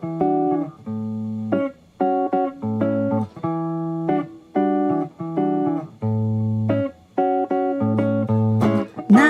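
Instrumental music: guitar playing a rhythmic pattern of short, choppy chords, each stopped before the next, over low bass notes.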